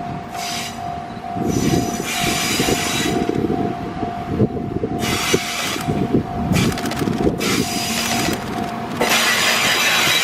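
A Japanese level-crossing alarm rings in a steady, evenly pulsing tone while a 700 series Shinkansen trainset rolls slowly past, its wheels rumbling and hissing on the rails with a few sharp clanks.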